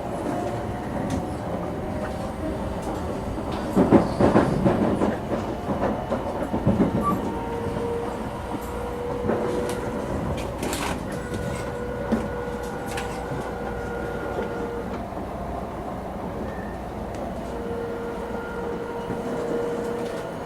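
Running sound of a 700 series Shinkansen car, heard from inside: a continuous rumble from wheels and track, with a burst of clicks and knocks over the rail about four seconds in. Steady thin tones from the traction motors and inverters come and go over it.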